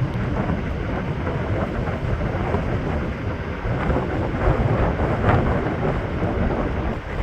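Wind gusting against the microphone under a supercell thunderstorm: a loud, uneven rush that is heaviest in the low end, swelling and easing.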